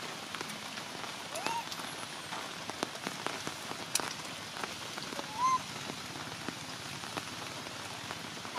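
Steady heavy rain falling and dripping onto wet surfaces, with many small drop ticks. Two short high calls that rise and fall cut through it, about a second and a half in and again around five and a half seconds.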